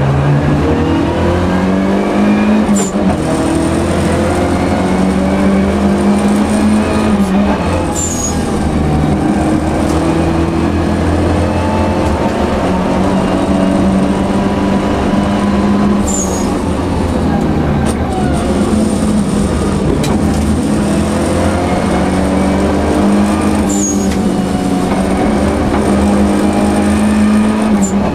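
Volvo 242 Turbo rally car's turbocharged four-cylinder heard from inside the cabin under hard driving, its revs climbing and dropping again and again through gear changes and braking. A short sharp hiss comes a few times as the throttle closes.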